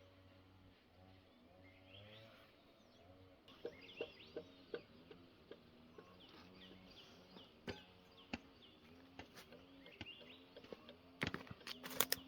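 Faint outdoor ambience of small birds chirping, with scattered sharp clicks and knocks and a quick run of louder clicks near the end.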